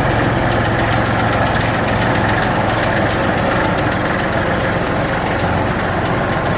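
Kubota diesel truck engine running steadily, with a fast, even knocking beat.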